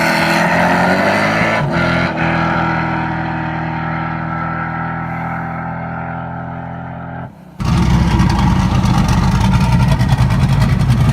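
Car engine revving up, dropping in pitch at a gear change about two seconds in, then holding steady and fading as it pulls away. A sudden cut about seven seconds in brings a louder, rougher engine rumble.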